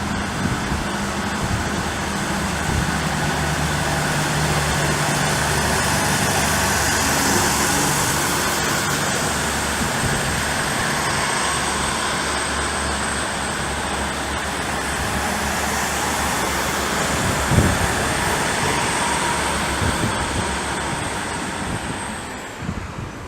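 Train running at the station: a steady low engine drone with a faint high whine over it, easing off near the end.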